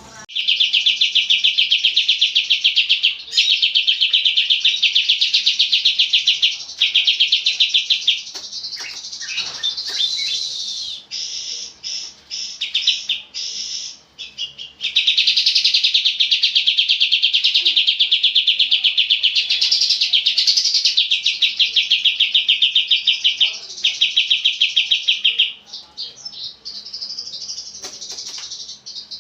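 Kapas tembak songbird singing long, rapid trills of fast repeated high notes, each run lasting several seconds, with shorter chirps and twitters between the runs.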